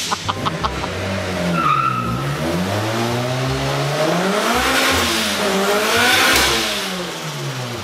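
Honda Integra four-cylinder engine revving on a chassis dyno. The revs drop for about two seconds, then climb steadily to a peak about five to six seconds in and fall away again near the end.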